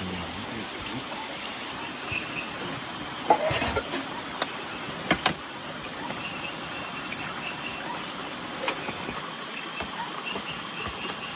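Steady rushing of rain and running water, with a few sharp knocks about three and five seconds in and a lighter one near nine seconds.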